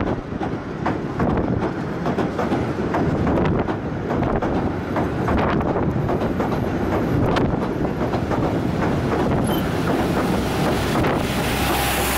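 Southend Pier Railway train running past at close range: a steady rumble of the carriages with a run of clickety-clack clicks from the wheels over the rail joints.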